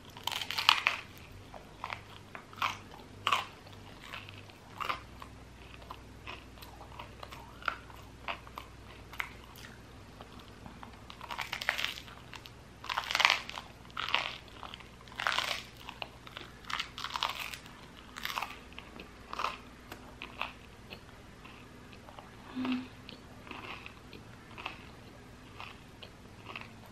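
Close-miked crunching and chewing of crusty baguette with cheese: irregular crisp bites and chews, thickest about halfway through.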